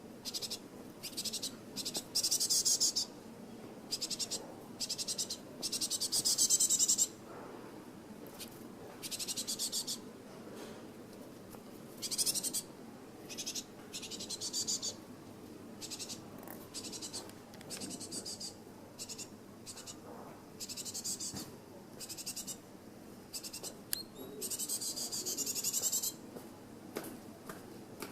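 High-pitched, rapidly pulsing trills from an animal, coming in many bursts from a fraction of a second to about two seconds long at irregular gaps. A faint steady low hum lies under them.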